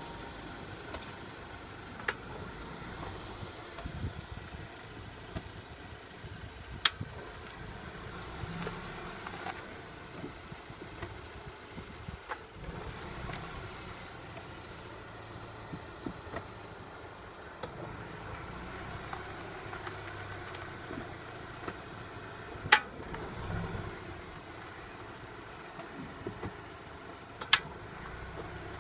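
Audi A4 B8 1.8 TFSI four-cylinder turbo petrol engine running at low revs, with several sharp clunks spread through it, the last two loudest. This is the clunk the car makes when pulling away in first gear or reverse, a fault the owner is trying to trace.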